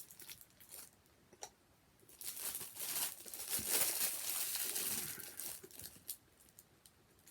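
Crinkling and rustling of a sandwich wrapper being handled, for about three seconds from about two seconds in, with a few faint clicks before it.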